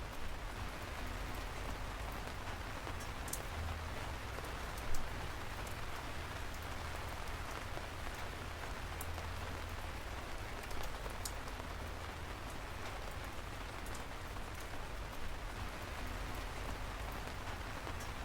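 Steady rain falling on a surface, with scattered sharp drop ticks and one louder tap about five seconds in.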